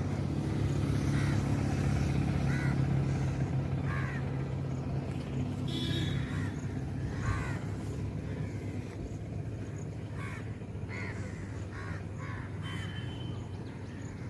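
Crows cawing repeatedly, one caw every second or two, over a low steady hum that fades after about six seconds.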